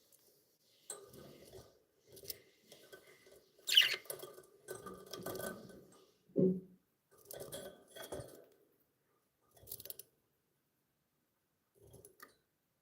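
Pet budgies making small clicking and tapping sounds in scattered bursts with quiet gaps between, with a brief chirp among them.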